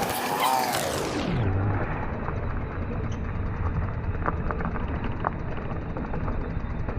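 A passing motor vehicle's engine rises and then falls in pitch in the first second or so. After that comes a steady, muffled low rumble of road noise.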